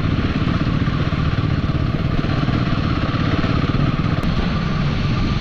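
Royal Enfield motorcycle engine running steadily while riding, with road noise.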